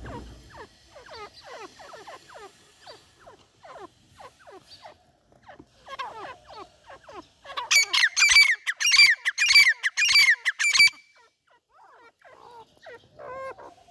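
Teetar (francolin) calling: a run of quick falling notes for the first several seconds, then a loud burst of shrill, rapidly repeated calls about eight seconds in lasting some three seconds, and a few quieter calls near the end.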